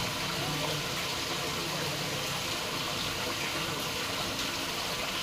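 Steady rush of flowing water from plumbing, an even hiss with no breaks.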